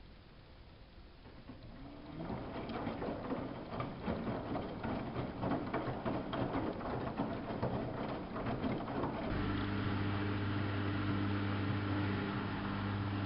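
Samsung front-loading washing machine running: an irregular sloshing, clattering noise builds up about two seconds in, then about nine seconds in it gives way to a steady electric hum.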